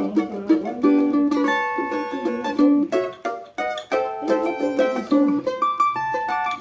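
Cavaquinho playing a melody of quick plucked single notes and short chords.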